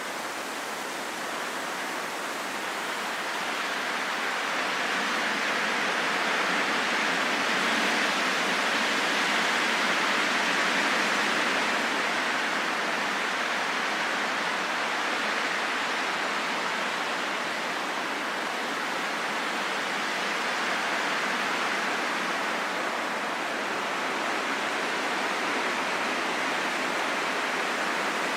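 Steady rain falling in a forest, an even hiss with no single drops standing out, swelling slightly a few seconds in and then holding level.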